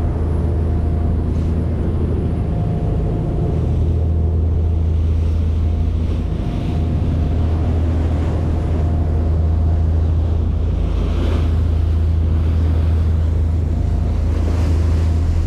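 Large fishing boat's engines running with a steady low drone, with wind and water noise over it.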